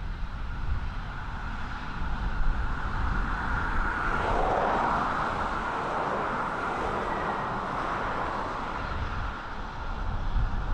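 Aircraft engine noise passing, swelling about four seconds in and easing off near the end, over gusty wind rumble on the microphone.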